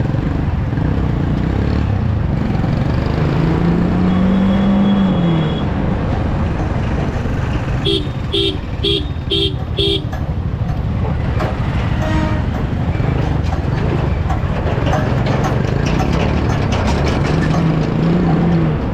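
Yamaha R15 V3 motorcycle riding in traffic: steady engine and wind noise, the engine note rising and falling a few seconds in. About halfway through, a vehicle horn beeps five times in quick succession.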